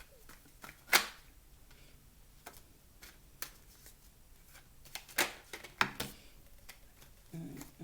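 Tarot cards being shuffled by hand, with a handful of sharp card snaps and clicks, the loudest about a second in.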